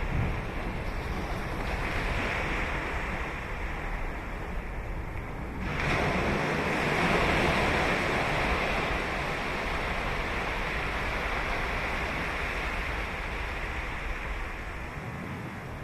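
Ocean surf on a sandy beach: a steady wash of waves, with one wave breaking about six seconds in that swells loudest, then slowly fades.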